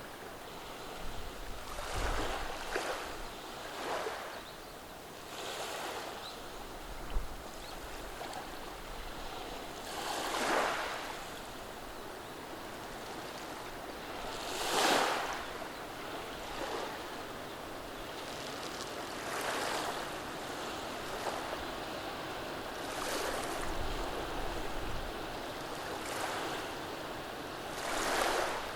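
Small, gentle waves washing in over a beach of rounded stones on a calm sea, a soft wash swelling and fading every few seconds.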